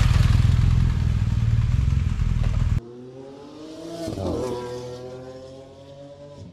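BMW R1250 GS motorcycle's boxer-twin engine running loud as the bike rolls in at low speed, with a heavy low rumble. It cuts off abruptly about three seconds in, leaving a much quieter pitched sound that rises and then slowly falls.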